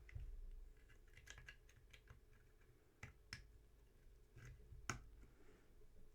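Faint, scattered small clicks and taps as parts of a jeep headlight switch unit are handled and fitted back together, with a cluster about a second in and single sharper clicks around three and five seconds.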